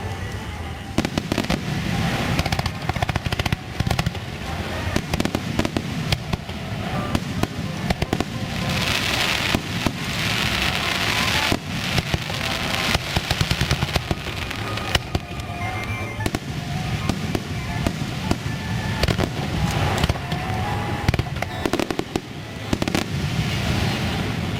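Aerial fireworks bursting in quick succession: many sharp bangs and crackles, thickening into a dense crackling hiss about ten seconds in.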